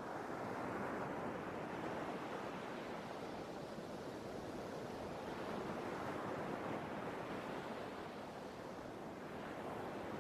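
Sea waves washing in steadily, a continuous rush that swells and eases slowly, with some wind.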